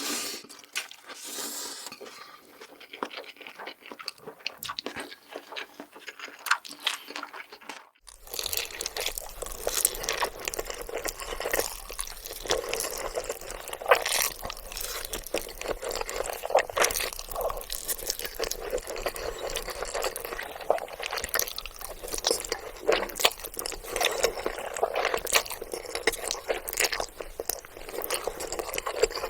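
Close-miked chewing and eating sounds of black bean noodles (jjajangmyeon), made up of many wet clicks and smacks. The sound changes abruptly about eight seconds in and is fuller after that.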